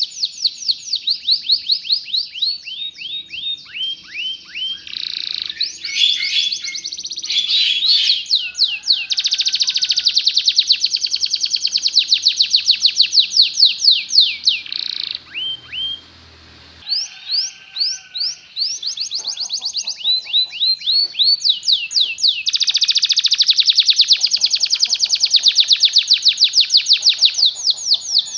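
Canary singing a long song of rapidly repeated high sweeping notes and fast rolling trills, with a brief pause a little past the middle.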